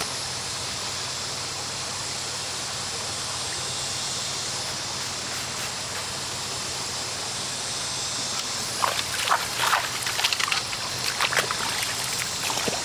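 Mountain stream running steadily. From about two-thirds of the way in, irregular splashing and sloshing as something moves in the water.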